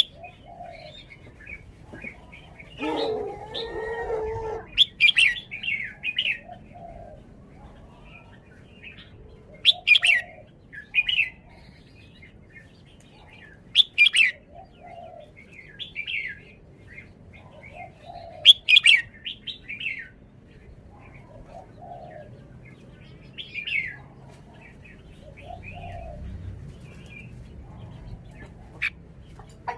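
Red-whiskered bulbul singing short, bright whistled phrases every four or five seconds, with softer low notes in between. A longer, lower call from another bird comes about three seconds in.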